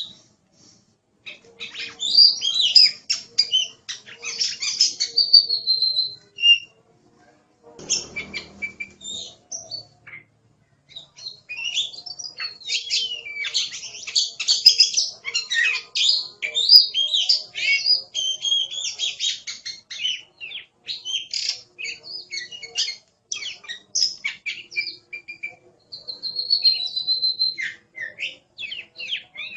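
Oriental magpie-robin (kacer) singing in rapid, varied phrases of whistles, trills and chattering notes, broken by short pauses. A brief low thump comes about eight seconds in.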